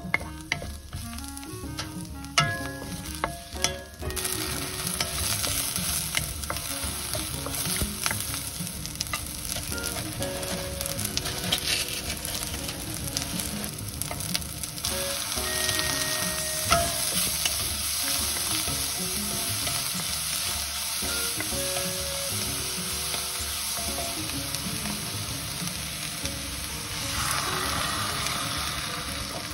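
Sliced Japanese long onion sizzling in sesame oil in a wok while being stirred with a wooden spatula. Near the end the sizzle grows louder as wet radish kimchi is tipped into the pan.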